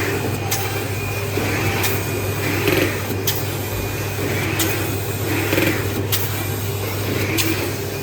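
Automatic drilling-hole magnet and metal pasting machine running through its cycles: a sharp click about every 1.3 seconds, each with a short rushing noise, over a steady low hum.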